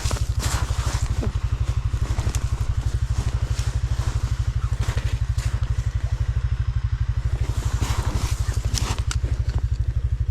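Stels Leopard 650 ATV engine idling steadily with a rapid, even low pulse. A few light crackles and clatters sound over it.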